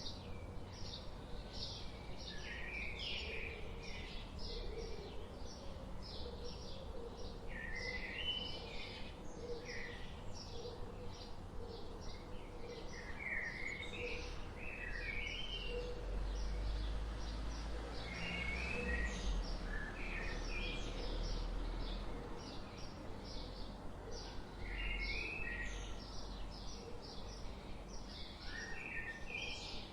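Forest birdsong: many small birds chirping in rapid, continuous trills and short notes. A low rumble rises for a few seconds past the middle.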